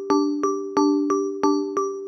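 A 6:12 polyrhythm played as synthesized mallet-like tones: two pitched notes, the higher struck about three times a second and the lower on every other strike, each note ringing briefly and decaying.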